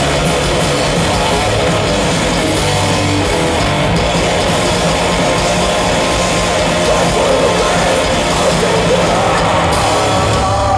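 Live heavy metal band playing loud: distorted electric guitars, bass and drums in a dense, steady wall of sound, with held guitar notes ringing near the end.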